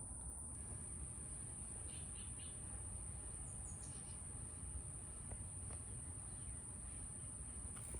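Steady high-pitched insect chorus, with a few faint, brief bird chirps.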